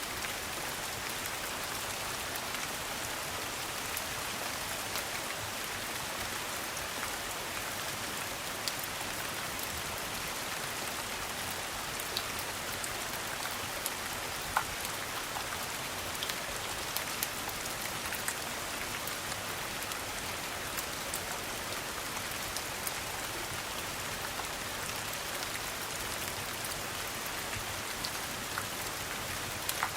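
Steady rain falling, with scattered sharp clicks at irregular moments.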